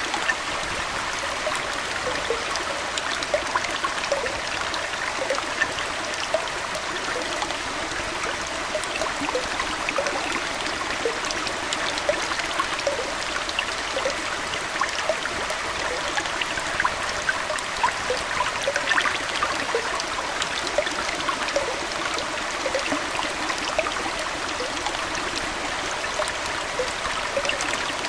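Aquarium water flowing and trickling steadily, with many small bubbling plops scattered through it.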